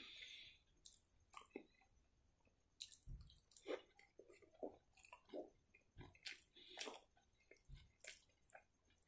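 Close-miked chewing of rice and fatty pork, with wet mouth clicks and smacks coming irregularly. A few soft low thumps fall in between.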